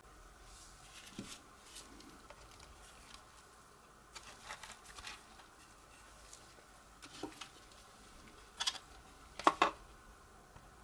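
Hands handling small parts: scattered light clicks and taps, with a few sharper knocks about nine seconds in.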